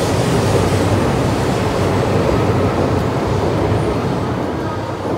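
E5 series shinkansen pulling out of the platform: a steady rumble of wheels and running gear as the cars roll past, easing slightly near the end.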